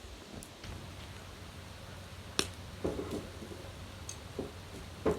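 Firewood being put onto a bonfire: a few light knocks and clicks of wood, about four across the few seconds, over a faint steady low hum.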